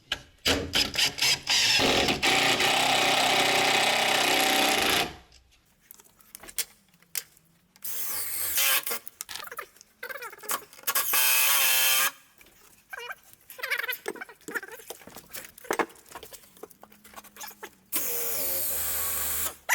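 Power drill run in several bursts: one long run of about three seconds near the start, two short runs in the middle, and a quieter run near the end. Knocks and handling clatter come between the runs.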